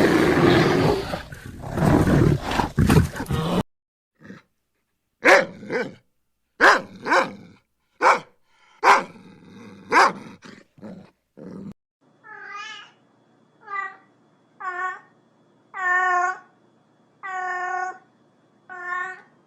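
A run of animal calls: a loud growling roar, then a string of short sharp calls from about four seconds in, then a series of short pitched cries, each rising and falling briefly.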